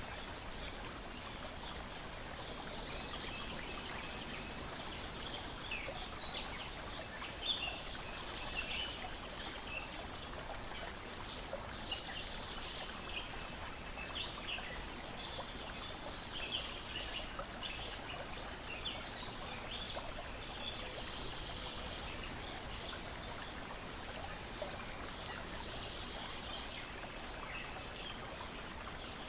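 Lake water steadily lapping and splashing against a shore and deck, with birds chirping and singing throughout.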